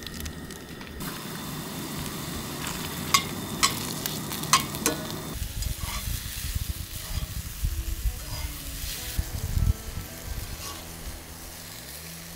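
Sliced onions and green peppers frying in a pan, sizzling steadily, with a few sharp clicks of a utensil against the pan about three to four and a half seconds in.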